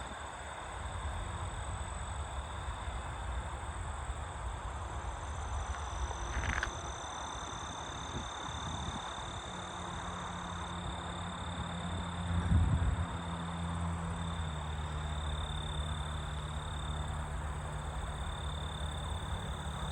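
Insects trilling steadily in a high, continuous tone, with a low steady hum starting about halfway and one dull thump about two-thirds of the way through.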